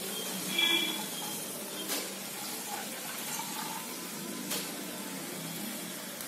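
Sprouted moth beans sizzling in a hot oil tempering in a pressure cooker as a spatula stirs them, with a couple of short spatula knocks against the pot.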